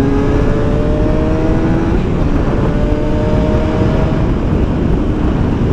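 Motorcycle engine pulling under acceleration: its note climbs steadily, drops back about two seconds in as it shifts up a gear, then climbs again. Heavy wind rush on the helmet microphone runs underneath.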